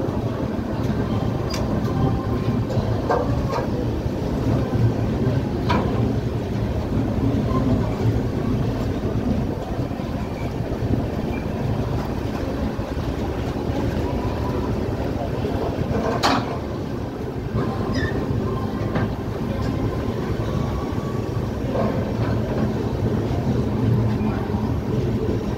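Passenger train running into a station, heard from on board: a steady low rumble of wheels on rail, with a few sharp clicks from rail joints and points, the loudest about two-thirds of the way through.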